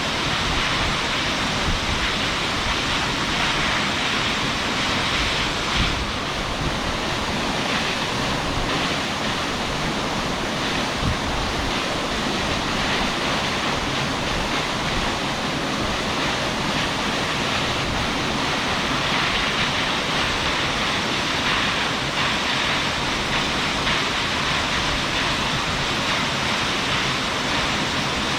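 Large waterfall plunging steadily into its pool, a dense, even rush of falling water.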